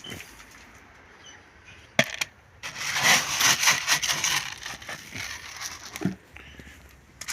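A sharp knock, then about two seconds of dense, crackly rattling that tails off, with a few lighter knocks after: small hard objects being handled.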